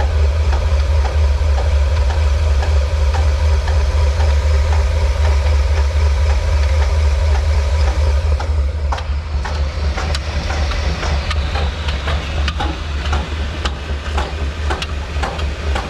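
Old stationary diesel engine running steadily with a deep, even beat. About halfway through the sound turns lighter and more clattery, with scattered sharp clicks.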